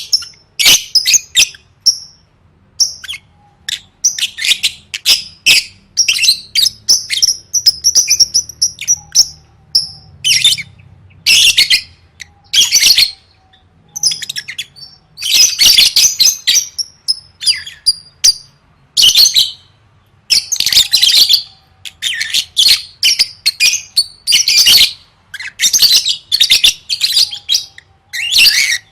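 Lovebird in full song: shrill, high chattering in rapid bursts, each about a second long with short gaps between, and one longer unbroken run partway through.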